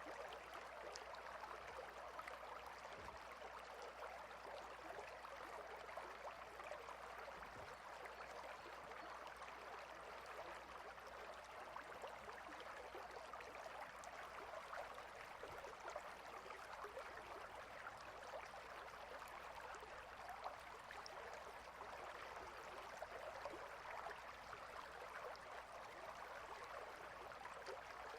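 Clear river water flowing between rocks: a faint, steady rushing with small splashing flecks.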